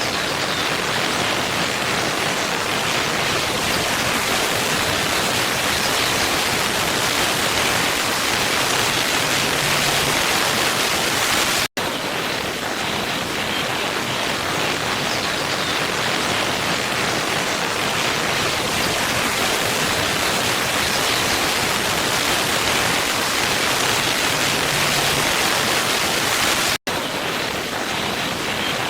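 Waterfall rushing steadily: a dense, even hiss, strongest in the upper range. It cuts out for a split second twice, about a third of the way in and near the end.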